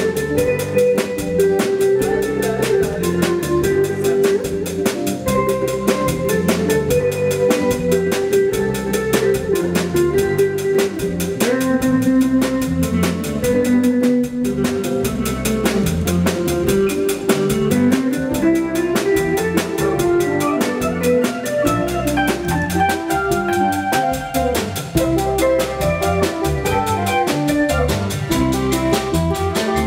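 Live band music: a drum kit keeps a fast, steady beat under melodic instrument lines.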